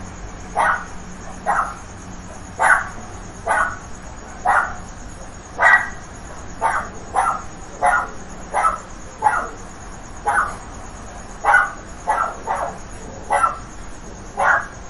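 A dog barking over and over, single barks at about one a second.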